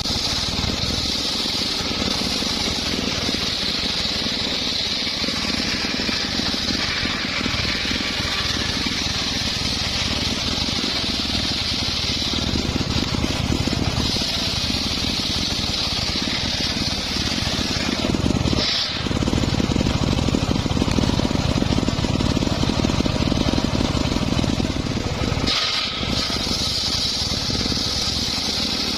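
Engine-driven homemade circular sawmill running steadily while its blade cuts a mahogany or teak log, with a high whine over the engine's hum. The whine fades out twice for a few seconds, with short dips in the noise near the middle and near the end.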